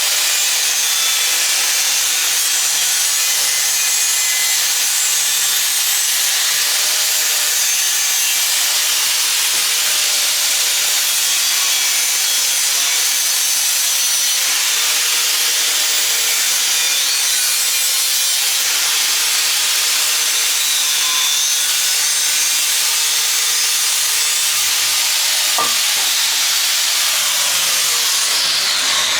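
Angle grinder cutting through a steel exhaust pipe: a steady, loud, hissing cut with the motor's whine wavering under load, winding down at the very end.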